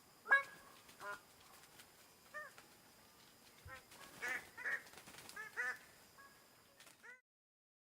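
A bird giving a series of short honking calls, each a brief arching note, irregularly spaced about every half second to a second; the sound stops about seven seconds in.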